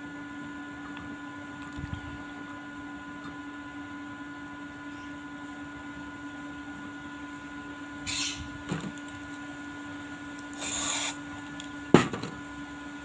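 Steady workshop machine hum, broken by two short hissing bursts and then a sharp knock, the loudest sound, near the end.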